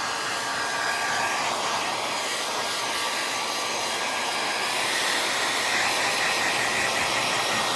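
Handheld electric hair dryer running steadily, its whine stepping slightly higher about five seconds in.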